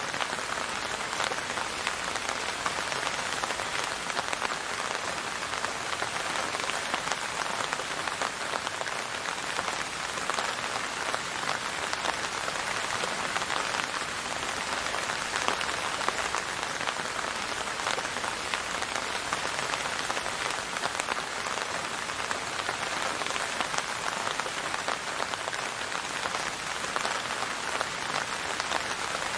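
Steady rain falling on a surface, a dense even patter of many drops with no thunder or music.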